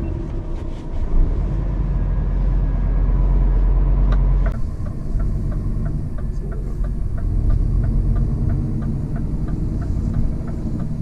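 Cab noise of a Scania hybrid truck on the move: a steady low rumble, with the diesel engine running while the electric motor drives the truck. From about halfway in, a regular tick sounds about twice a second.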